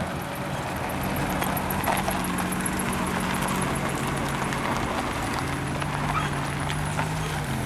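An engine running steadily, its low hum dropping slightly in pitch about halfway through, over a background hiss.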